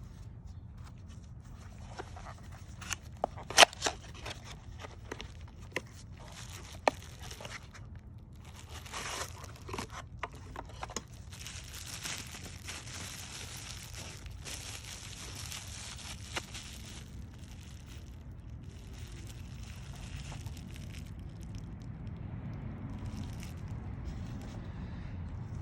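Hand work on removed parts: a few sharp clicks and knocks, then several seconds of crunching, scraping and crinkling, over a low steady hum.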